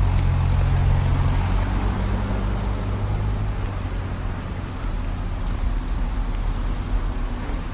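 Road traffic going by, its low engine rumble fading after a second or so, under a steady high-pitched insect trill.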